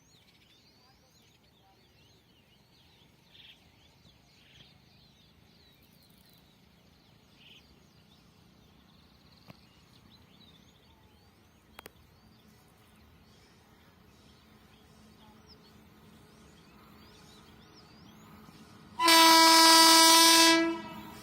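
Train horn of an Indian Railways locomotive, one loud blast of under two seconds near the end. Before it, faint bird chirps over quiet surroundings.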